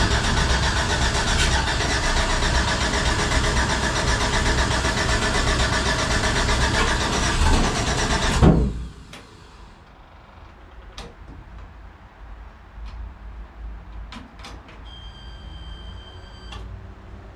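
A stock-car build's engine with open boom-tube exhaust, running loud for about nine seconds, then cutting out and spinning down. A few sharp switch clicks and a brief electronic beep follow.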